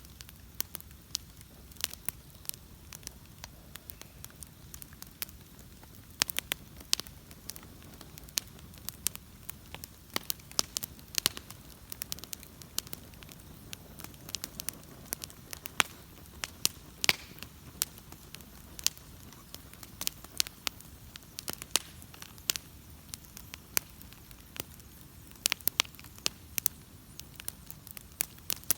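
Wood bonfire burning, crackling and popping in sharp, irregular snaps over a low, steady rumble of flame.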